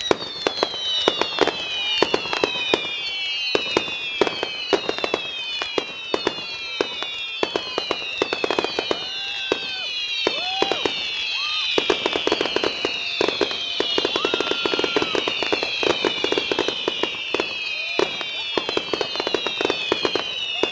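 Fireworks finale barrage: a dense, rapid string of bangs and crackles, overlaid with many whistles that fall in pitch one after another.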